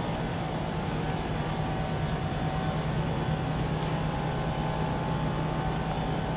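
Steady motor-vehicle noise: a constant low engine hum over even street traffic noise.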